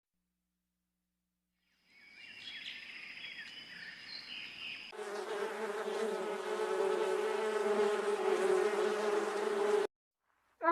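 A flying insect buzzing: a faint buzz starts about two seconds in and swells, then from about halfway a loud, steady wing buzz holds until it cuts off abruptly near the end.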